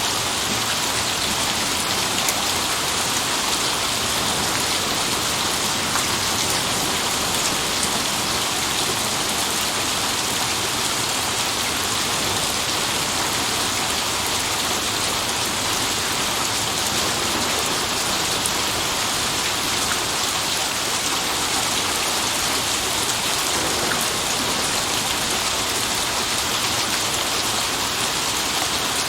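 Steady heavy rain falling, a dense even hiss with scattered drop patter.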